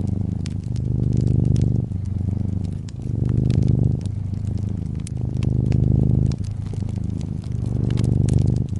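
Domestic cat purring close up, a low pulsing rumble that swells and eases about every two seconds with its breathing. Over it a wood fire crackles with frequent small pops and snaps.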